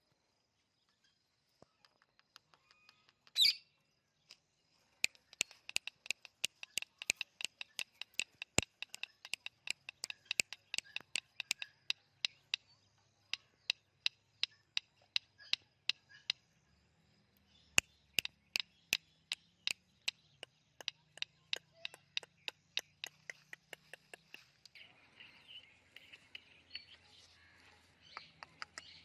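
Indian ringneck parakeet making a long run of sharp, quick clicks, after one short call about three seconds in. Near the end the clicking gives way to softer chattering and small chirps.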